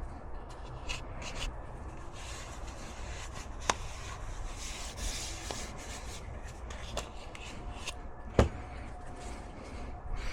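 Hand-handling noise of parts being worked on: rubbing and light scraping, with two sharp clicks, one a little under four seconds in and one about eight seconds in.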